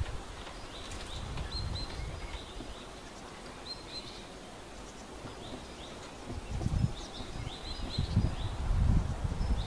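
Small birds chirping repeatedly in short high calls, over a low background hum. Low rumbles hit the microphone during the last few seconds.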